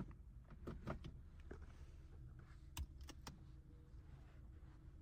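Low rumble inside a slow-moving 2024 Honda Civic's cabin, with a few sharp clicks about a second in and again around three seconds in.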